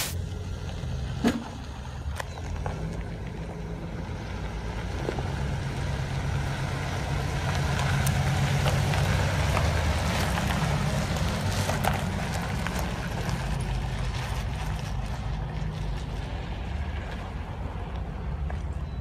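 Cadillac Fleetwood limousine's V8 engine running as the car drives slowly around, getting louder as it passes close about eight to eleven seconds in. A short knock about a second in.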